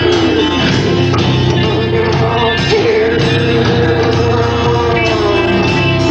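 Live rock band playing, with guitars and singing.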